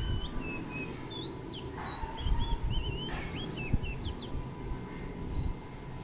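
Small wild birds chirping in quick, high, rising and falling notes, thickest in the first four seconds and then only a note or two, over a low rumble.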